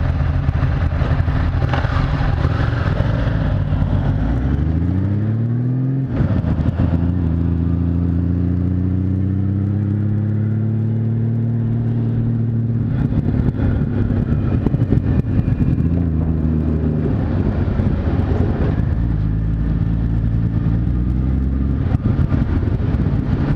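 Motorcycle engine running under the rider, revving up about four seconds in as the bike pulls away, then running steadily at low speed with small changes in throttle.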